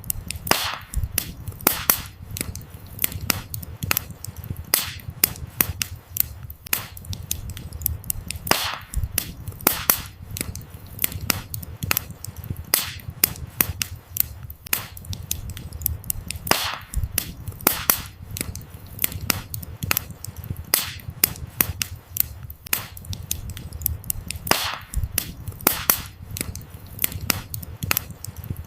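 Wood fire crackling, with irregular sharp pops of burning firewood, a few louder snaps every few seconds, over a steady low rumble of the flames.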